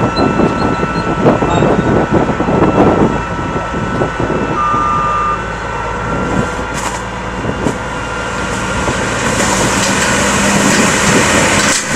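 Heavy truck engine running, with a single short beep about five seconds in.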